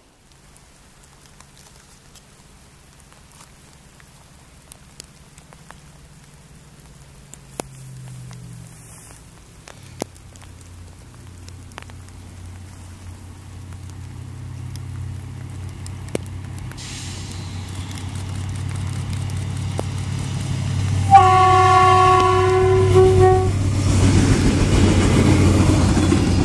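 A train approaching, its low running rumble growing steadily louder, sounding one horn blast of about two seconds late on, then passing close by with a loud rush of engine and wheel noise.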